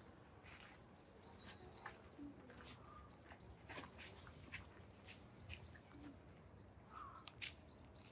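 Faint, scattered short bird chirps over a low, steady background hum.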